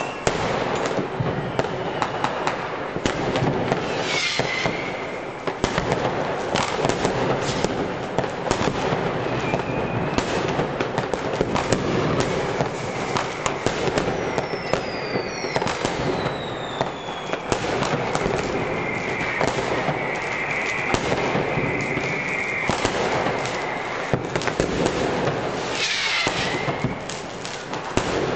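Amateur New Year's Eve fireworks going off all over a city: a dense, unbroken crackle of firecrackers and rocket bursts, with no let-up. Several rocket whistles glide down in pitch over the din, about four seconds in, mid-way, and near the end.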